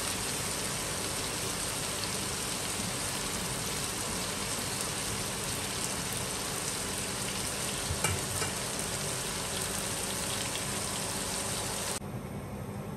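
Okra masala of okra, tomatoes, onions and green chillies sizzling in a non-stick wok with a steady hiss while a silicone spatula stirs it, with a couple of soft knocks about 8 seconds in. The sizzle cuts off about a second before the end, leaving a quieter hiss.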